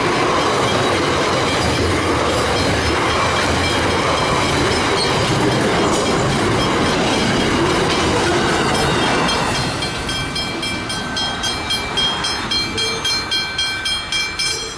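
A train passing over a level crossing with a steady rumble and clatter of wheels on rail. About two-thirds through it fades, and the crossing's Westinghouse Hybrid bell comes through, ringing rapidly at about three strikes a second.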